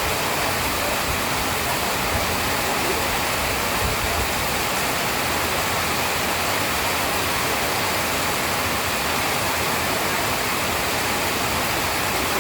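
Steady heavy rain, a dense, even hiss of falling water with no breaks.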